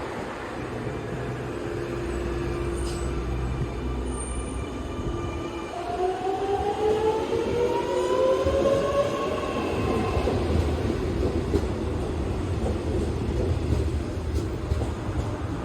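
Electric suburban train running through, a steady rumble with a motor whine that climbs in pitch about six seconds in and sinks away again a few seconds later.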